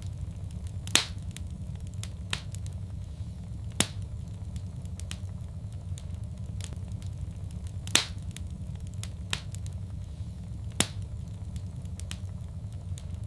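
Wood fire crackling in a fireplace: a steady low rumble of flame with many faint ticks and four sharper, louder pops spread through.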